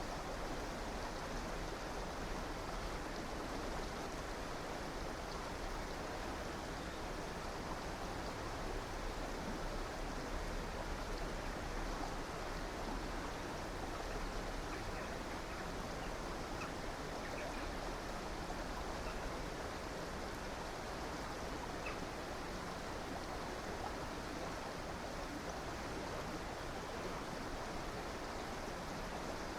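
A river's water running over rocks in a steady, even rush.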